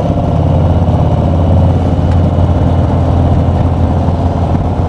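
Harley-Davidson V-twin motorcycle engine running steadily at cruising speed.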